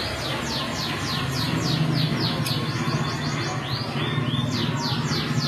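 A songbird singing a fast series of sharp downward-sweeping chirps, about four a second, in two runs with a short break near the middle, over a steady low hum.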